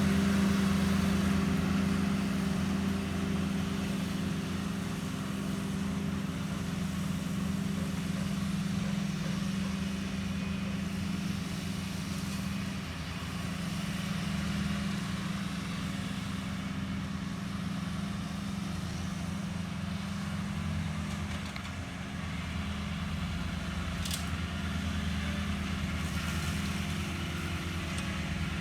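Walker zero-turn riding mower's engine running steadily: a constant low hum that dips slightly a couple of times, with one brief click near the end.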